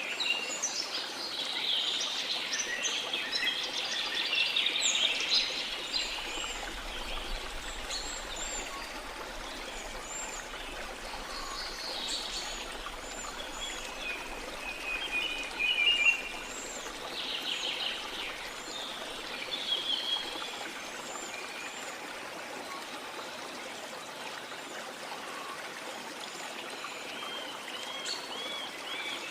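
Steady rush of a waterfall with many rainforest birds chirping and calling over it, including repeated short arched whistles.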